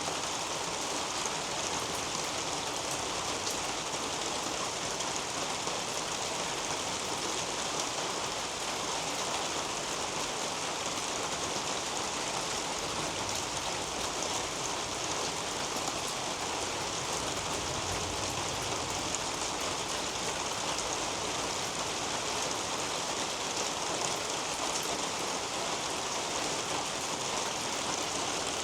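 Steady rain falling on garden foliage under a leafy canopy, a dense, even patter of drops.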